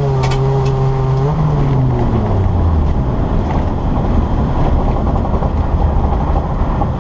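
Nissan Micra's engine heard from inside the cabin: its note drops in pitch right at the start, holds steady for about a second, then falls away over the next second as the driver lifts off. What is left is a low rumble with the noise of the car rolling over the ice.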